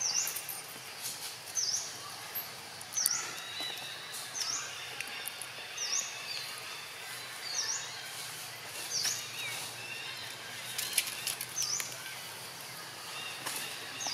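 A bird repeating one short, high, dipping note about every second and a half, over a steady outdoor background with scattered faint clicks.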